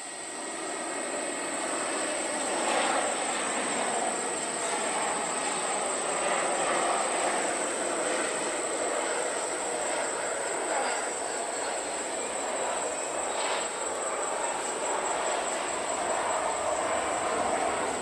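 Jet airliner engines running, a steady rushing noise with a thin high whine over it.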